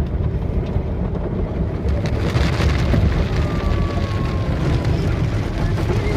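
Car wash spraying water over a car: a steady low rumble, with the hiss of spray on the car body growing louder about two seconds in.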